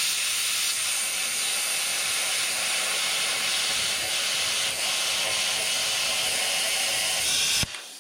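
Hobart 27i plasma cutter cutting through 3/8-inch steel plate: a loud, steady hiss of the arc and air jet that cuts off suddenly near the end.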